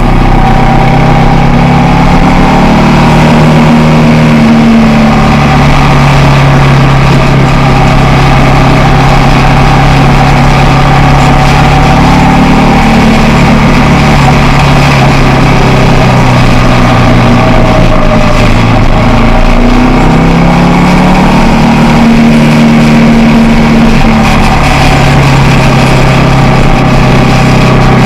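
Motorcycle engine running under way, its pitch holding steady, dropping about five seconds in and climbing again near the twenty-second mark as the revs change.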